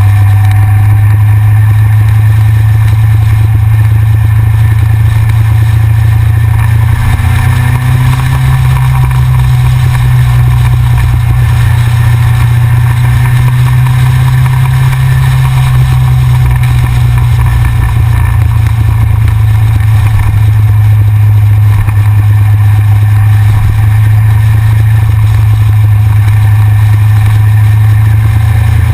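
Yamaha XJR's air-cooled inline-four running steadily at road speed, picked up by a camera mounted on the bike's front, with loud steady wind rumble over the engine. Faint rises and falls in engine pitch come and go.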